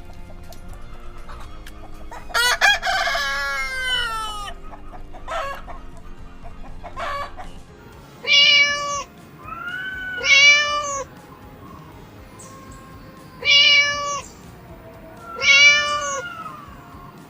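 Loud pitched bird calls: one long call falling in pitch about two seconds in, then two pairs of calls, each a short held note followed by a rising-and-falling one.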